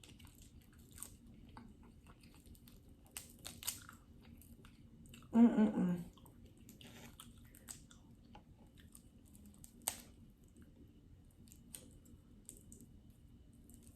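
A person chewing and eating close to the microphone, with small wet mouth clicks and crunches. About five seconds in there is a brief hummed sound of enjoyment, and a single sharp click near ten seconds.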